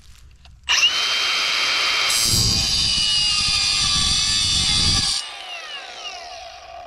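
Milwaukee Fuel cordless power tool with a diamond blade spinning up with a high whine, then cutting into the steel lip of a bucket for about three seconds, harsher and louder while the blade is in the metal. The blade is then lifted off and the motor winds down with a falling whine.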